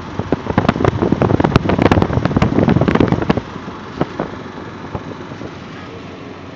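A car on the move with a burst of rapid sharp clicks and knocks for about three seconds, then two or three more about four seconds in.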